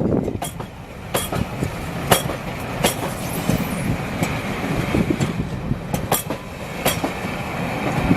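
Train rolling past slowly, its wheels clacking over rail joints and pointwork at irregular intervals over a steady rumble.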